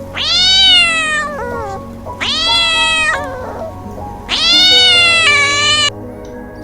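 A cat meows three times in long, drawn-out calls that rise and then fall in pitch, the last one breaking in two. Steady background music plays underneath.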